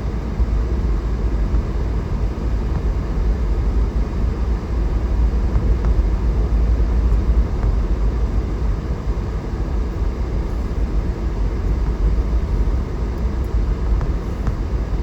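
Vehicle's heater blower fan running, a steady, kind of loud rush of air inside the cabin.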